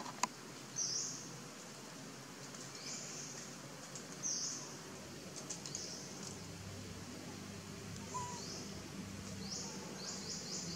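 A bird chirping: short high notes repeated every second or two, speeding into a quick run of five or six near the end. A single sharp click sounds just after the start.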